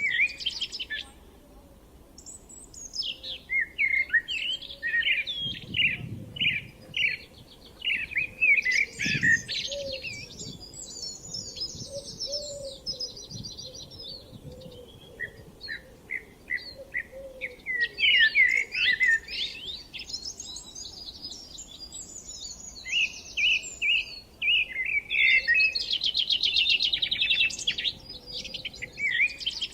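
Songbirds singing outdoors in spring: several overlapping phrases of rapid chirps, trills and warbles, one after another with short pauses between them.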